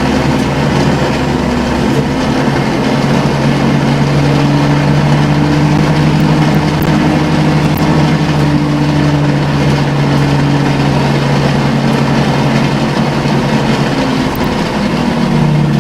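Scania L94UB city bus's CNG engine running under way: a steady, loud drone whose pitch climbs slightly, holds, then eases off near the end.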